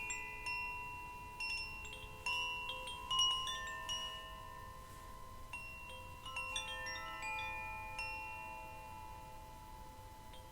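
Metal chimes struck in loose, irregular clusters, each note ringing on and overlapping the others; the loudest strike comes about three seconds in.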